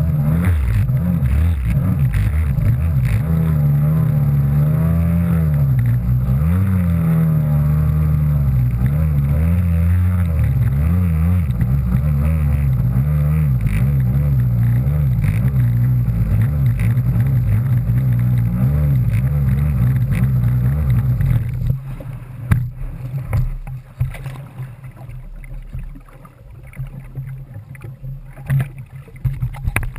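Kawasaki JS300 stand-up jet ski's two-stroke twin engine running hard, its pitch rising and falling as the ski rides over waves. About 22 seconds in the engine stops, leaving quieter, uneven noise.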